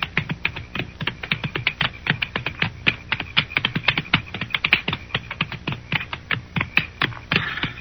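Radio-drama sound effect of several horses walking: an irregular run of hoof clops, several a second, over a steady high chirr of night insects.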